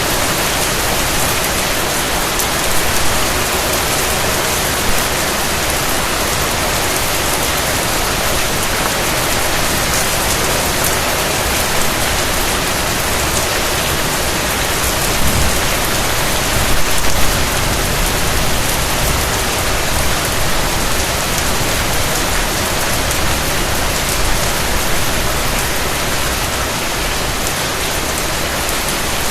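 Steady rain falling, with the patter of raindrops on a surface, even and unbroken.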